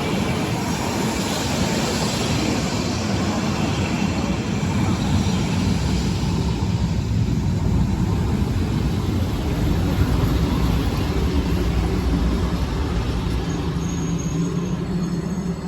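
Rhaetian Railway train running past with a steady, loud rumble of wheels and running gear, and a faint thin high tone near the end.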